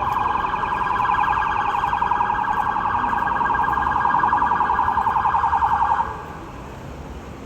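Electronic siren sounding a fast-pulsing warble at a steady pitch, cutting off suddenly about six seconds in.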